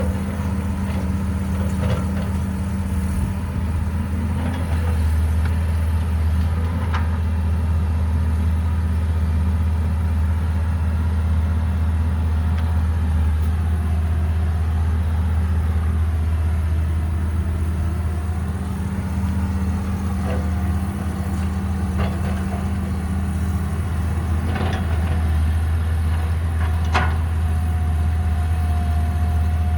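Caterpillar 312B excavator's diesel engine running steadily, with a few sharp clanks through it and a thin whine that comes in near the end.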